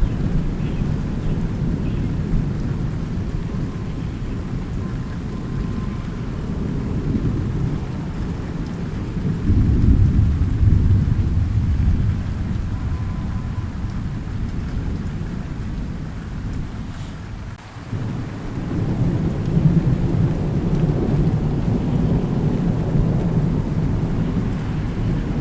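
Thunderstorm: low rolling thunder rumbles continuously over steady rain, swelling loudest about ten seconds in, dipping briefly past the middle, then swelling again.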